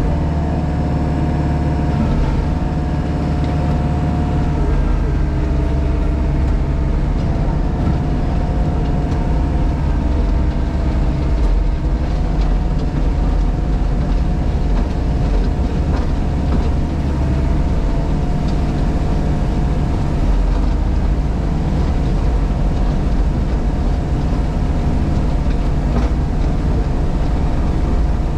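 A JCB Pothole Pro's diesel engine running steadily, heard from inside the cab, with a steady whine that dips slightly in pitch now and then.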